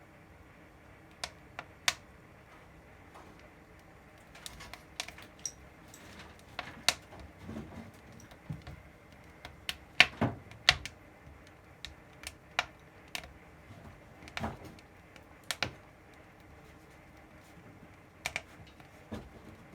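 Wood fire crackling in a cast-iron firebox: irregular sharp snaps and pops of burning firewood, a few to several a second at times, with the loudest cluster about halfway through.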